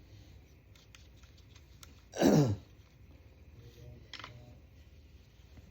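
A single short vocal sound, falling steeply in pitch, about two seconds in, with a few faint clicks around it.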